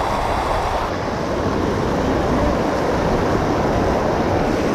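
Fast-flowing creek water rushing steadily, with a low rumble of wind on the microphone.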